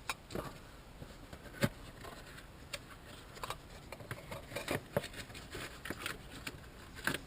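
Irregular light clicks and taps from small objects being handled.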